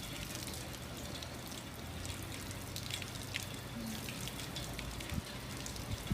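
Light trickling water with scattered small drips, over a low steady hum.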